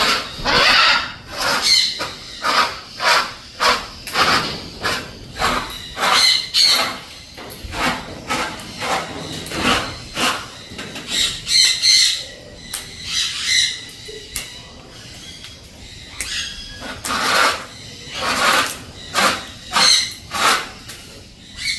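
Blue-and-gold macaw giving loud, harsh squawks over and over, in quick runs with a few short lulls.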